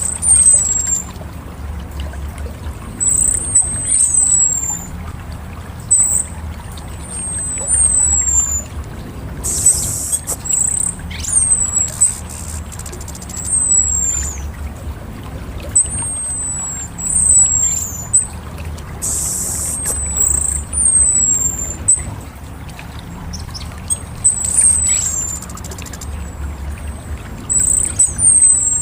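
Orange-headed thrush giving thin, high descending whistled calls, singly and in quick pairs every second or two, over a steady low rumble, with two short bursts of hiss.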